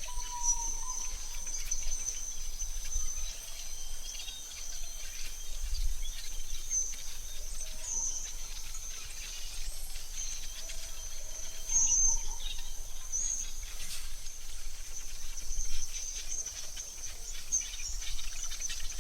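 Synthetic forest ambience: a steady high-pitched insect trill with scattered short bird chirps and a few brief lower whistles, over a faint low rumble.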